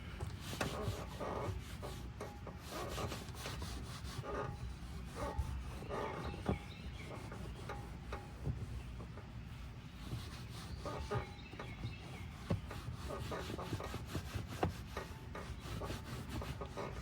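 Irregular rubbing and scrubbing strokes of interior cleaning on a car, with short squeaks here and there.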